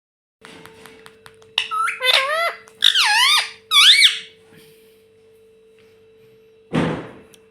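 Pet ring-necked parrot giving a run of four loud, high, squeaky calls that swoop up and down in pitch, about a second and a half in. Near the end comes one short harsh squawk.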